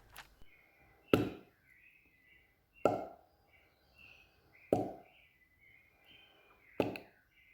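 A woman voicing the isolated "p" sound of the letter P, a short unvoiced puff-pop of the lips, four times about two seconds apart.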